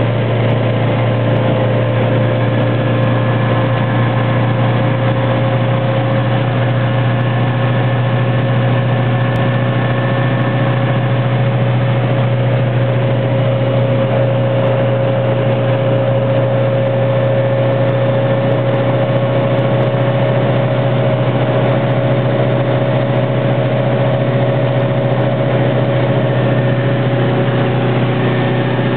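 Fiat 600's rear-mounted four-cylinder engine running steadily at full throttle in fourth gear at cruising speed, a constant low drone with a steady whine above it that edges slightly higher.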